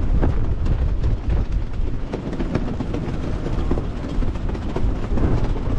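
Loud, irregular low rumble of wind buffeting the microphone, with no clear tone or rhythm.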